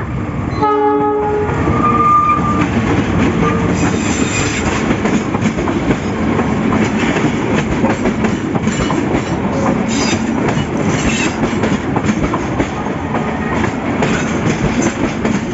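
A train horn sounds briefly just under a second in. Then the train passes close by with a loud, steady rumble and wheels clattering over the rail joints.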